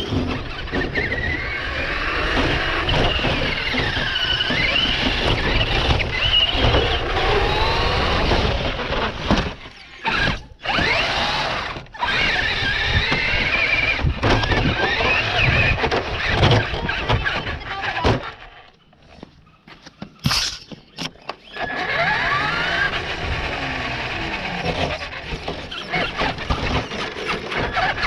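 An RC car's electric motor whines, its pitch rising and falling with the throttle, over the rumble of its tyres on pavement, heard close up from a camera riding on the car. The sound drops out briefly a few times, and a sharp knock comes about twenty seconds in.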